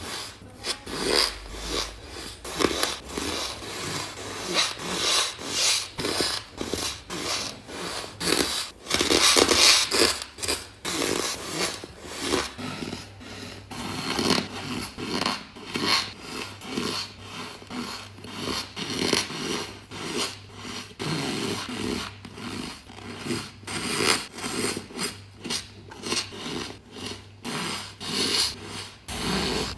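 Close-miked crunching of soft, powdery ice being bitten and chewed: a dense run of short crunches, several a second, loudest about a third of the way in.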